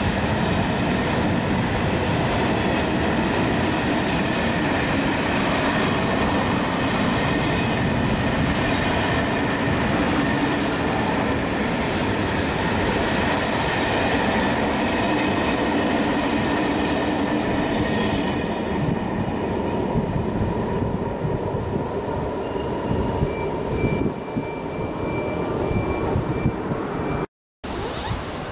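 Freight train of covered sliding-wall wagons rolling past, a steady rumble and rattle of wheels on rails with a thin high squeal over it. About two-thirds of the way through the last wagons pass and the noise fades off into the distance, before a brief dropout near the end.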